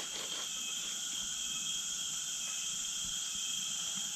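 Insects chirring in a steady chorus: a continuous high-pitched buzz that holds without a break.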